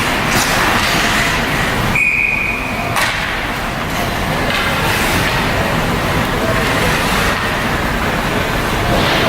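Noisy hockey-game ambience with spectators' voices, broken about two seconds in by one short, steady blast of a referee's whistle.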